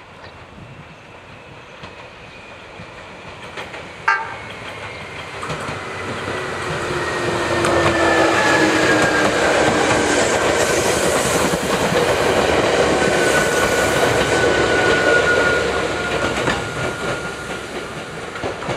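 A Chichibu Railway 7000 series electric train approaches and passes close by, growing louder to a peak in the middle and then easing off. It gives a short horn toot about four seconds in. Wheels clatter over the rail joints while a motor whine slowly falls in pitch.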